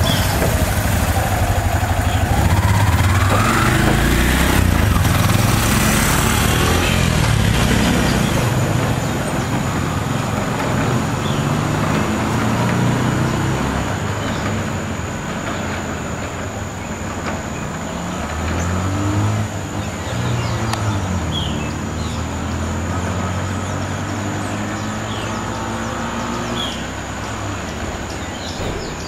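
Motorcycle engine running under way, its pitch rising and falling again and again with throttle and gear changes. Heavy wind-like noise fills the first several seconds.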